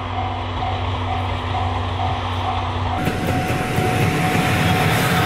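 Train passing close by on the rails: passenger coaches and a brake van rolling past with wheel and rail noise. It gets suddenly louder about three seconds in. Before that a steady low hum and a tone pulsing about twice a second are heard.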